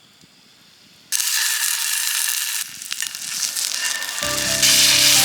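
Food sizzling in a hot frying pan, starting suddenly about a second in and getting louder near the end, with music coming in underneath.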